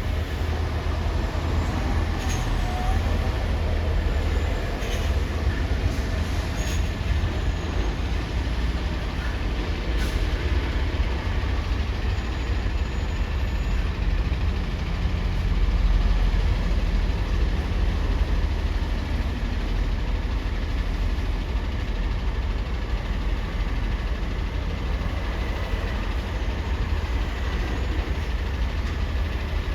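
Steady low rumble of heavy diesel engines, with a few faint clicks and clanks over it and a slight swell in level about halfway through.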